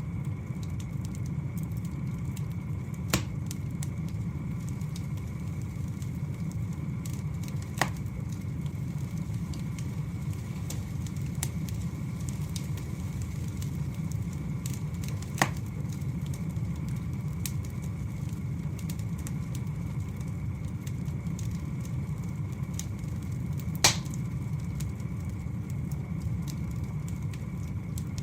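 Wood fire burning over a steady low rumble, with faint crackling throughout and four sharp loud pops at intervals of several seconds.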